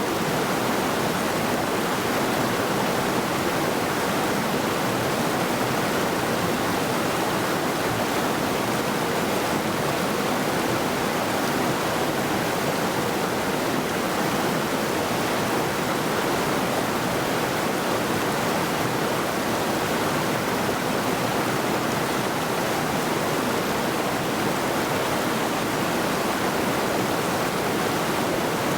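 Mountain river rushing steadily over rocks: a constant, even wash of water noise.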